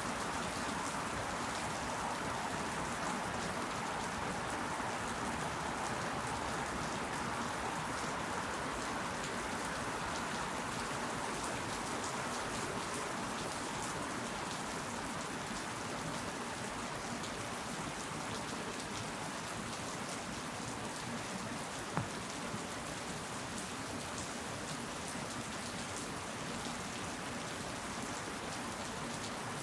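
Steady rain falling, an even unbroken hiss, with one sharp tap about two-thirds of the way through.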